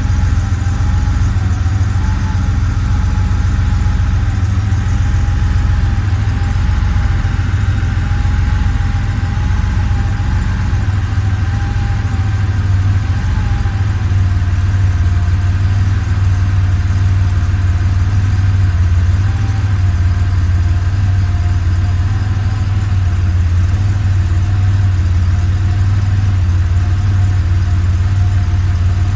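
1989 Porsche 911 Turbo's air-cooled, turbocharged 3.3-litre flat-six idling steadily while it warms up after a cold start. About halfway through, the idle settles slightly lower in pitch.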